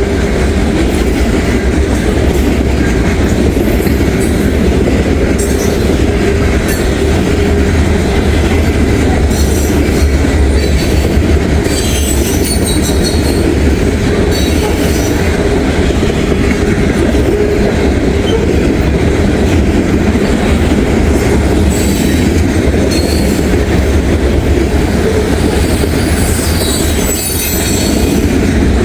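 Heavy loaded grain train's freight cars rolling past close by: a steady heavy rumble of steel wheels on rail, with high-pitched wheel squeals cutting in several times, around ten seconds in, again past twenty seconds and near the end.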